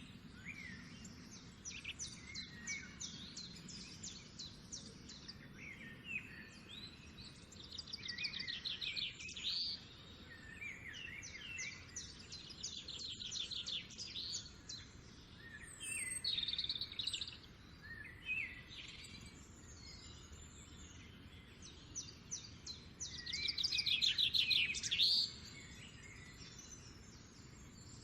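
Songbirds singing: rapid high trills and short chirping notes, repeated every few seconds over a faint background hiss. The loudest trill comes near the end.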